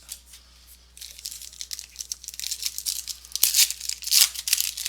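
Foil trading-card pack wrapper being torn open and crinkled by hand, in quick crackling bursts from about a second in, loudest near the middle and just after.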